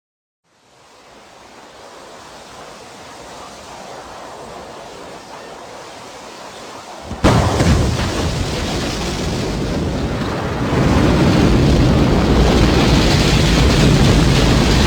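Rocket launch: a hiss of noise builds, then about seven seconds in the engines' loud, deep rocket noise comes on suddenly and keeps going. It grows louder again about eleven seconds in.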